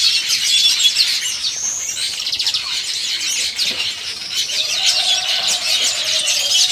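Many small birds chirping at once, a dense chatter of short, overlapping calls.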